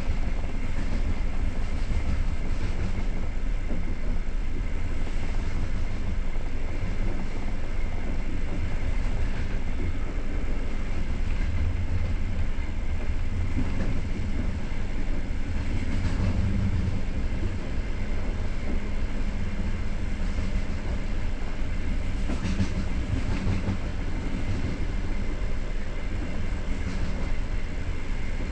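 Passenger train coach running at speed, heard from inside by the window: a steady rumble of wheels on the rails with a few faint clicks.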